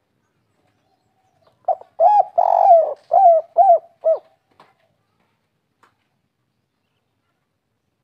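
Spotted dove (tekukur) singing one cooing phrase of about six notes, a longer coo in the middle and three short ones at the end: the 'kuk 3' song type.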